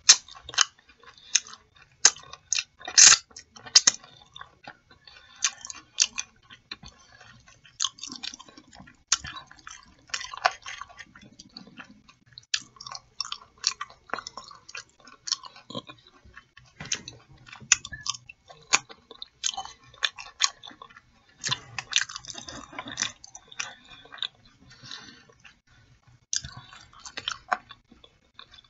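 Close-miked chewing and biting of chicken in mumbo sauce and french fries, with irregular sharp mouth clicks and crackles throughout.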